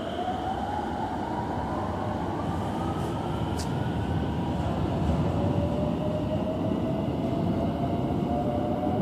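Electric train pulling out of the platform: a rumble of wheels and motors, with the inverter whine rising in pitch as it speeds up, climbing once over the first few seconds and then again more slowly.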